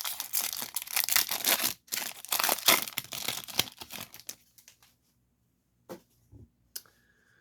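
Foil trading-card pack wrapper being torn open and crinkled, in quick scratchy rips for about four and a half seconds, then a few light taps.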